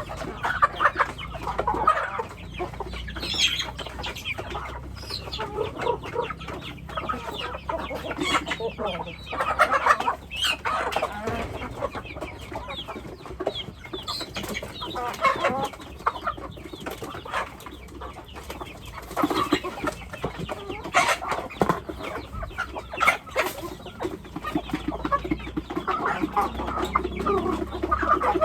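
A flock of domestic chickens clucking and calling continuously, many short overlapping clucks and cheeps with occasional louder calls.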